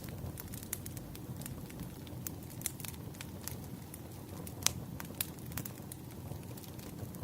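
Campfire crackling, with irregular sharp pops over a steady low rumble; one pop about halfway through is louder than the rest.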